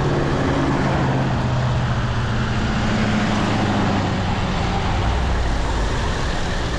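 Wind rushing over the microphone of an e-bike being ridden fast, with the low drone of a motor vehicle in traffic that falls in pitch over the first few seconds.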